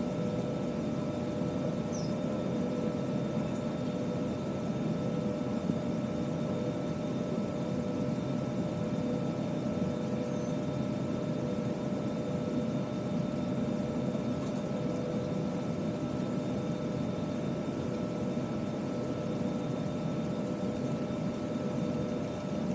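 Steady hum and rush of air inside a parked Airbus A320 cabin with its ventilation running, with a few steady whining tones held over it.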